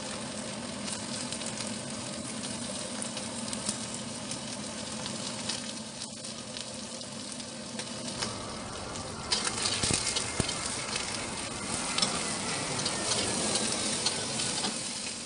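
Flour-coated tempe and chicken pieces sizzling in hot oil in an aluminium wok. About nine seconds in the sizzle gets louder and a metal spatula starts scraping and turning the pieces, with a run of small clicks.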